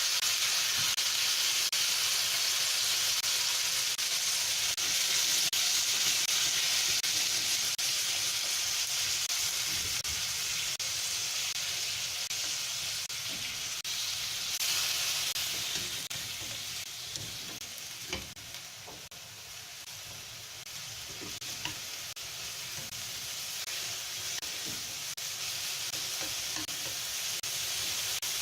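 Pork belly sizzling in a frying pan as it is stir-fried: a steady hiss that eases a little in the middle, with a few light knocks of the utensil against the pan.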